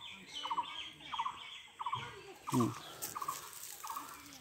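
A bird repeating a short, rapid call about twice a second. About halfway through there is one louder, lower sound that falls in pitch.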